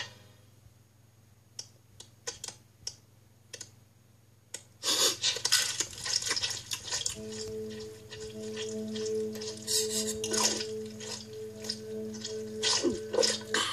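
Cartoon eating sound effects: a few scattered smacks, then dense wet chewing and munching as a mouthful of burrito is eaten. A steady low hum runs under the chewing from about halfway through to near the end.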